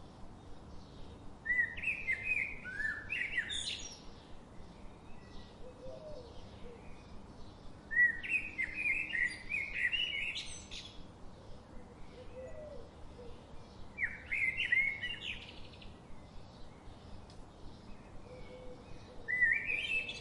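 A songbird sings the same short phrase of quick notes four times, about six seconds apart. Each phrase ends in a high upward flourish, and fainter bird chirps continue in between.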